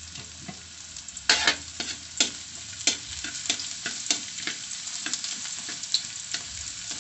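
Chopped garlic and ginger sizzling in a little oil in a metal wok while a metal spatula stirs them, scraping and knocking against the pan. The spatula strokes start about a second in and come roughly three a second, with the sizzle steady underneath.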